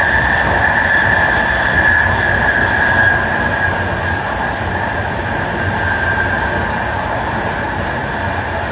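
Passenger train running along the line, heard from the rear end of its last carriage: a steady rumble of wheels on rail with a high whine that slowly sinks in pitch, easing a little after about three seconds.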